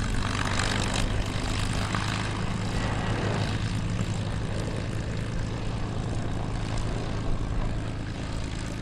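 Piston-engined propeller aircraft flying by, a steady engine drone that eases slightly near the end.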